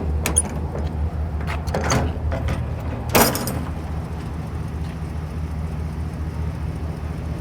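Truck engine idling with a steady low hum, with a few sharp metal clunks of utility-bed compartment doors and latches being worked, the loudest about three seconds in.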